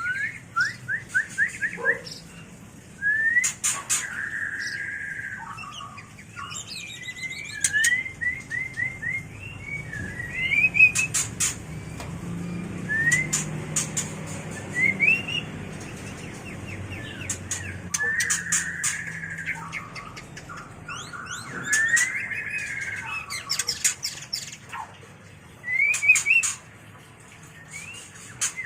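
White-rumped shama (murai batu) singing its breeding-season song: varied whistled phrases of quick rising notes mixed with sharp clicking chips, phrase after phrase with short pauses between.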